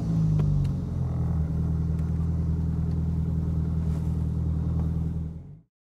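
Small open roadster's engine idling steadily, then stopping near the end.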